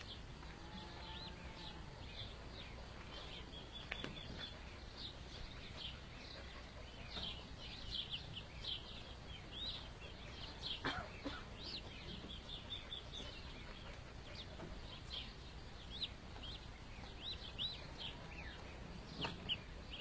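Duckling peeping: many short, high-pitched peeps, sparse at first and coming thick and fast from about seven seconds in.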